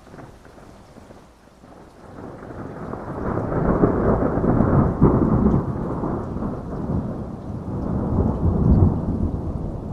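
Rolling thunder over steady rain. Beneath a faint rain hiss, a low rumble builds from about two seconds in, peaks in the middle, and swells once more near the end.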